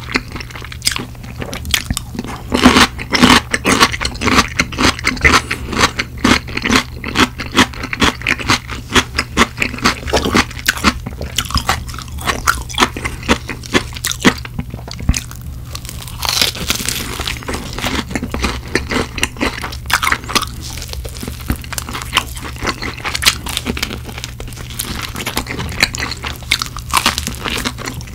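Close-miked, crisp crunching and chewing as cheese-powdered fried chicken and pickled radish cubes are bitten and chewed, in a dense, irregular run of bites. A faint steady low hum runs underneath.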